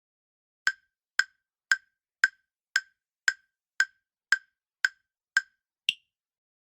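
Countdown-timer ticking sound effect: ten sharp, even ticks about two a second, then a final higher-pitched click near the end, marking the end of the time to answer.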